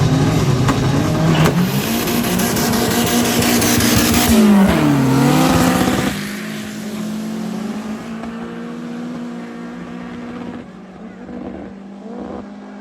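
Race car engine running hard at high revs, its pitch stepping up, then dipping and climbing again; about six seconds in it drops away sharply and carries on quieter, fading off.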